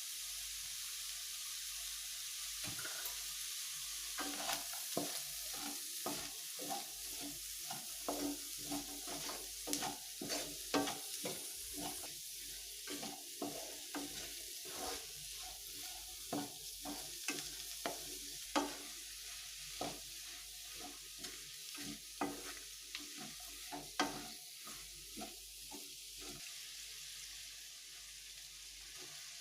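Food sizzling in a hot pan while a spatula stirs and scrapes it: a steady hiss with irregular clinks and scrapes from about three seconds in until near the end.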